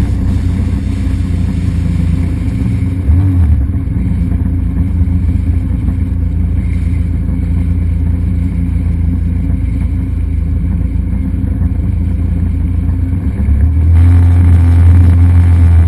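An engine running steadily, growing louder near the end.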